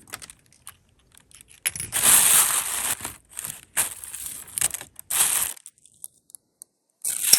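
Jewelry being handled and sorted by hand: several short bursts of rustling and crinkling, with a pause of about a second and a half before a last burst near the end.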